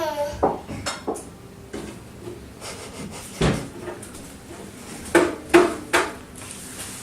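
Scattered knocks and clanks from a child moving around inside a washing machine drum, with a heavier, deeper thump about three and a half seconds in and a quick cluster of knocks near the end.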